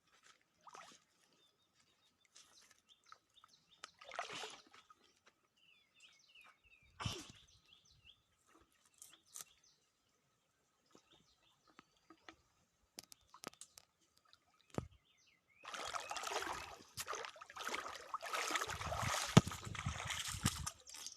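Water splashing and sloshing in short scattered bursts, then a longer stretch of continuous heavy splashing over the last five seconds. Small birds chirp in between.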